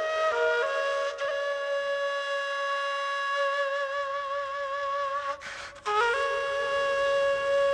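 Kurai, the Bashkir end-blown flute, playing a slow solo melody of long held notes with vibrato, with a short break for breath about five and a half seconds in.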